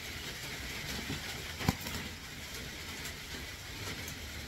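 A single sharp knock about halfway through, over a steady low background rumble.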